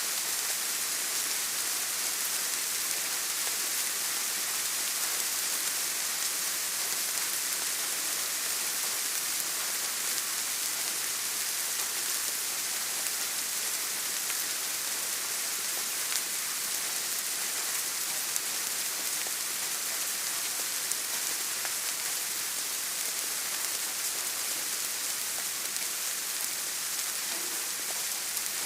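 Steady rain falling as an even hiss, with a few separate drops ticking now and then.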